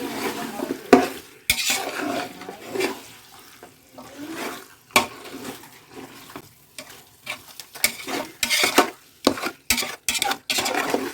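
A spoon stirring chunky chicken pieces into thick masala in a cooking pot: irregular scrapes, knocks and clinks of the spoon against the pot.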